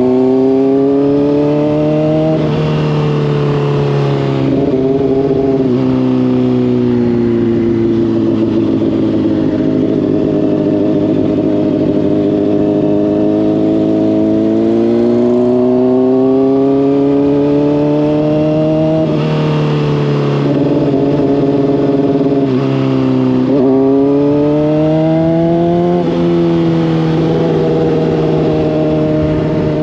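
Honda CBR600RR's inline-four engine through a Hotbodies Stinger slip-on exhaust, under way: revs climb and fall repeatedly, with the pitch dropping suddenly at several gear changes and a quick dip and rise about two thirds of the way through. Wind noise runs underneath.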